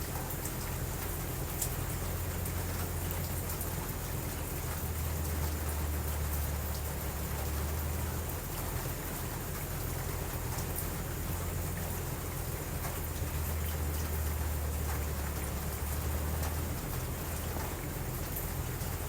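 Steady rain, with scattered faint ticks over a low steady rumble.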